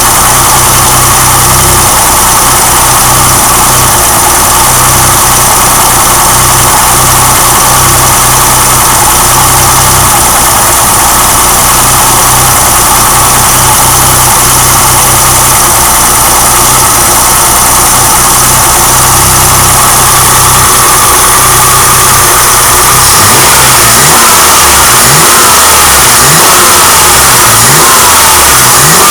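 BMW E9 3.0 CS's M30B35 3.5-litre straight-six idling steadily, then, from about three-quarters of the way through, revved in quick blips about once a second, each rising and dropping back to idle.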